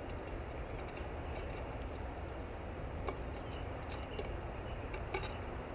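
Quiet background: a steady low rumble with a few faint, light clicks scattered through it, around three, four and five seconds in.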